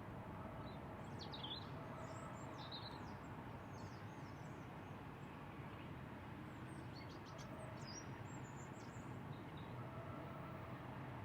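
Small songbirds chirping in two brief flurries of short, high calls, about a second in and again past the middle, over a steady low hum of distant outdoor background noise.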